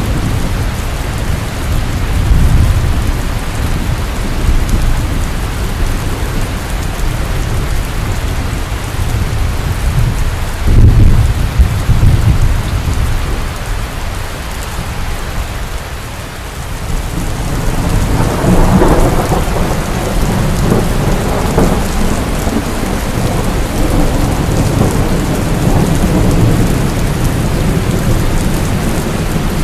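Heavy rain pouring steadily, with thunder rumbling low underneath. About a third of the way in a loud thunderclap breaks and rolls off, and after a brief lull past the middle another long roll of thunder swells and fades.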